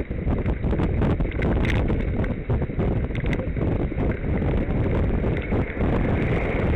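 Wind buffeting the microphone of a camera on a moving bicycle, with many small clicks and rattles mixed in.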